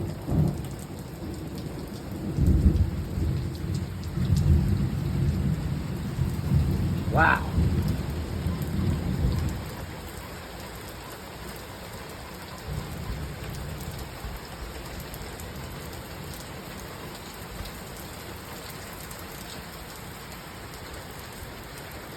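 Heavy rain falling steadily, with a long roll of thunder that breaks about two seconds in and rumbles on for some eight seconds before fading, and a fainter rumble a few seconds later.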